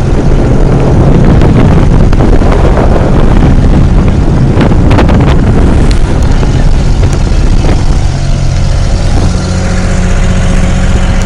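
A boat's engine runs steadily under a loud, even rushing noise, with a few brief knocks about halfway through.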